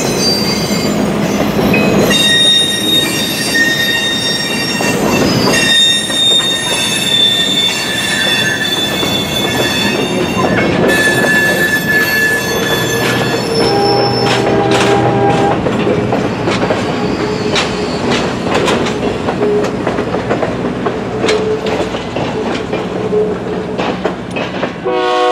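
Railroad cars rolling past on steel wheels, squealing in high, shifting held tones. About halfway through the squeal drops lower and a quick clatter of wheels over rail joints comes through.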